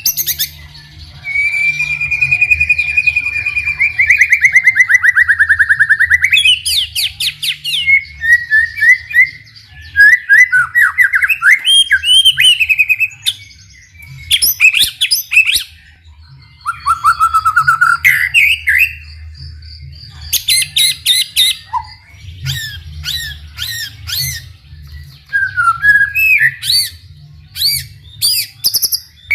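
White-rumped shama (murai batu) singing a long, varied song in full voice: a long whistle that glides down near the start, then phrases of quick trills, rising and falling whistles and rapid chirps with short pauses between them.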